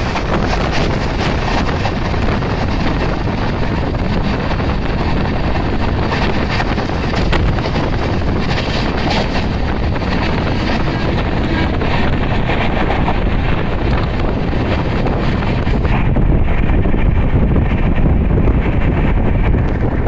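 Wind buffeting the microphone and the steady running noise of an Indian Railways passenger train at speed, heard from an open coach doorway, with the clatter of another train passing close on the next track. The high hiss drops away about sixteen seconds in.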